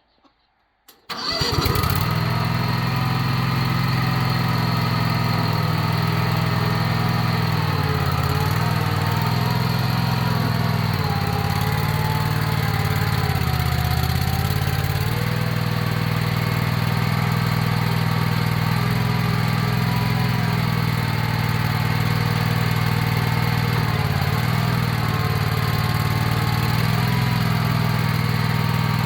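Predator 670 V-twin engine of a mini Bobcat skid steer starting about a second in, then running steadily through its newly fitted muffler on a black-pipe manifold, with a few brief dips in speed.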